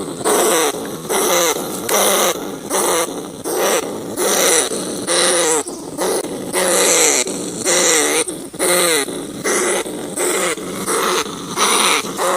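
Rat squealing and crying in a steady series of harsh, pitched calls, roughly two a second, each bending in pitch.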